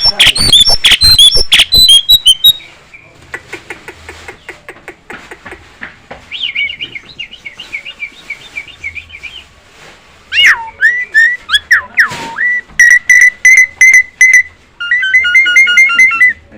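Nias hill myna calling: a fast run of loud chirps and whistles, quieter chatter, then swooping whistles about ten seconds in. Near the end it gives rows of evenly repeated, ringtone-like beeping notes.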